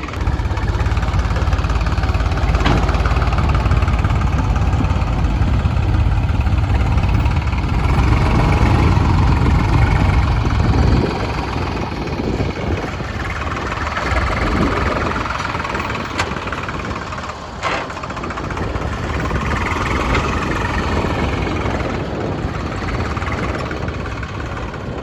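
Heavy diesel machinery running: a loud, deep engine rumble for the first eleven seconds or so, which drops off suddenly to a lighter, uneven running sound.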